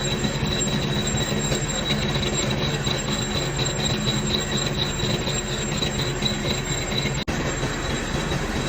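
Metal lathe running under cut on a pulley blank: a steady motor hum with a constant high-pitched whine and the scraping hiss of the tool on metal, broken by a brief dropout about seven seconds in.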